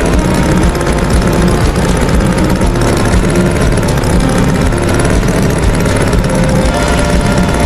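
Engine running steadily at idle, with a fast, even rumble.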